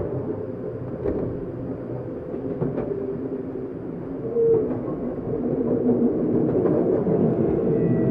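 Running noise heard inside a Tokyu 7700 series electric commuter motor car: a steady rumble of wheels on rail with a few faint clicks, growing gradually louder in the second half.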